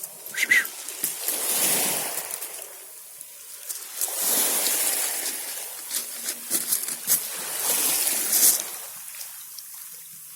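Small sea waves washing and sloshing against the shore, coming in surges every three seconds or so with small splashes. A brief high chirp sounds about half a second in.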